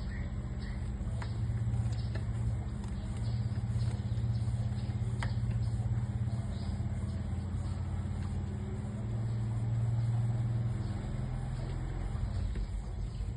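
Steady low engine-like hum, with a few faint, scattered high chirps over it.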